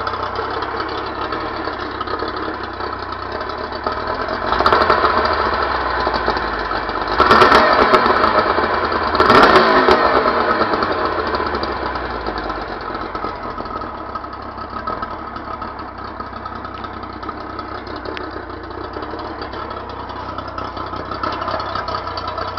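Yamaha 40 hp two-stroke outboard motor with Autolube oil injection running soon after a cold start. It is revved up briefly three times, about five, seven and nine seconds in, then settles back to a steady idle.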